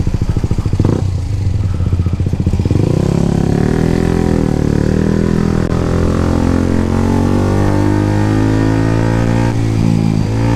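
Motorcycle engine at low revs with a fast pulsing beat, then accelerating from about three seconds in, its pitch rising and dipping several times as the revs climb and fall.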